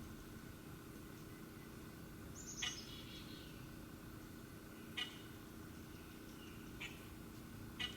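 Four short, sharp bird chip calls, spaced irregularly a second or two apart, over a faint steady hum; the first call opens with a quick falling note.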